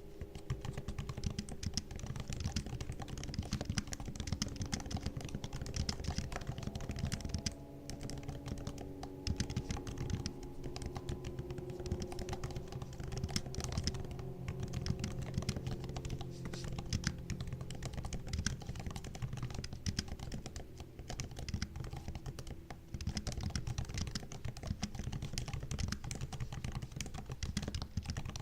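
MacBook laptop keyboard being typed on continuously: a quick, even run of soft key clicks and taps, broken by a few short pauses.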